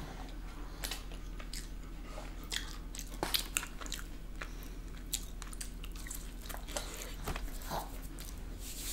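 Biting into and chewing a crispy fried chicken finger: a run of irregular crunches.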